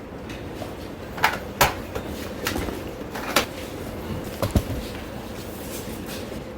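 A handful of sharp knocks and clacks from hard objects being handled and set down, over a faint steady hum. The loudest clacks come about a second and a half in and just past the middle.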